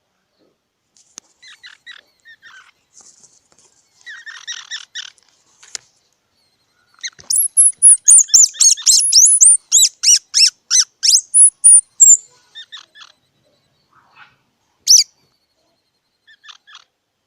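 Squirrel calling with high-pitched squeaks and chirps: scattered faint chirps at first, then a loud, rapid run of squeaks lasting about five seconds, starting about seven seconds in, and one sharp chirp near the end.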